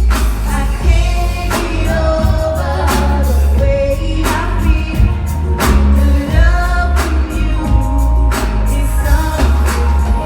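Live R&B concert music through a PA system: sung vocals over a heavy bass line, with a hard drum hit about every second and a half.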